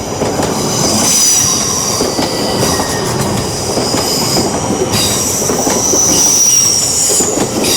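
LNER Class 801 Azuma train passing, a steady rumble of wheels on the rails with high-pitched wheel squeal that rises and fades several times.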